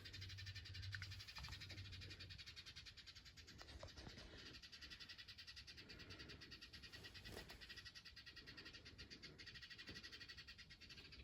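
Faint, soft cat calls, a few of them about two seconds apart: a cat talking to sparrows.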